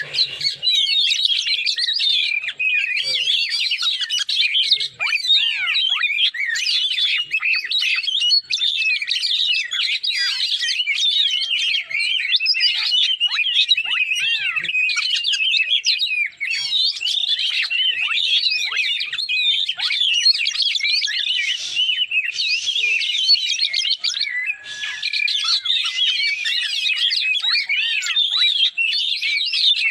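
A bird singing a rapid, unbroken, high-pitched twittering song of quick chirps and trills.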